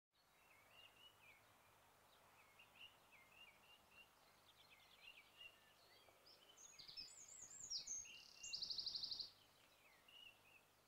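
Faint birdsong: small birds chirping and twittering, with several different calls, busier in the second half. The loudest is a rapid trill of quickly repeated notes lasting under a second, late on.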